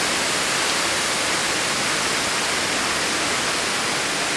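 Waterfall: water falling into a pool, a steady, unbroken rushing hiss.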